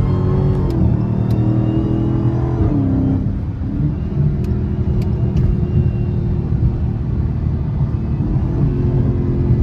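Dodge Challenger Hellcat's supercharged V8 running while the car is under way, a steady engine note that drops in pitch about three seconds in and then holds steady.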